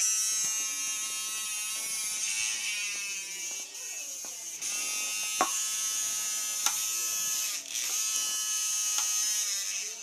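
Small electric motor of a homemade sander and cutter running with a high whine and a strong abrasive hiss, its pitch shifting a few times. Two sharp ticks come in the middle.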